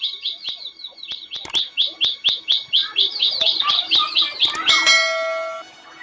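A small bird chirping in a fast run of short, high chirps, about eight a second. Near the end a click and a bright bell-like ding ring out for about a second.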